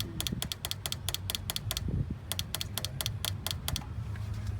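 Rapid, even mechanical clicking, about eight clicks a second, that stops about four seconds in, over a low steady hum.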